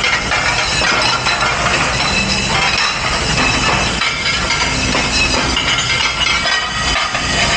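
Dishes and glassware clattering and clinking in a commercial kitchen's dish pit, over steady machine noise.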